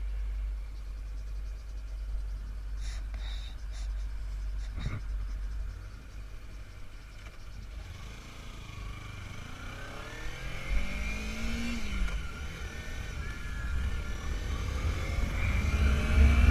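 Motorcycle engine running under a steady low rumble, then revving up several times in the second half, its pitch climbing and breaking off and climbing again as it accelerates through the gears, loudest at the end.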